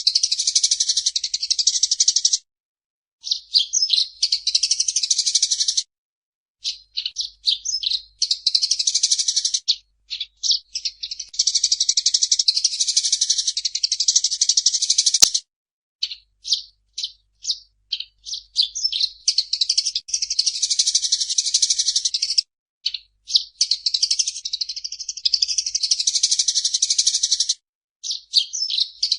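Eurasian tree sparrow singing in fast, dense chattering bouts of a few seconds each, broken by short pauses. A single sharp click sounds about halfway through.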